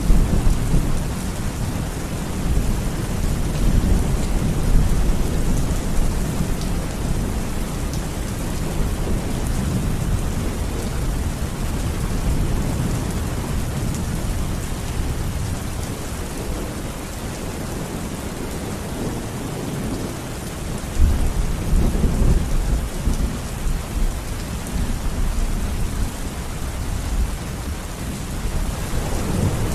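Steady rain falling, with low rolling thunder rumbling underneath. The rumble swells about two-thirds of the way through and again near the end.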